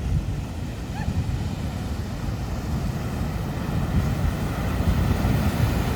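Large ocean waves breaking and surf rumbling steadily, with wind buffeting the microphone; it swells a little in the second half.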